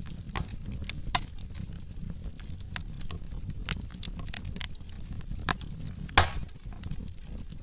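Wood fire in a fireplace crackling: irregular sharp pops and snaps from the burning logs over a steady low rumble of flame, with one louder pop about six seconds in.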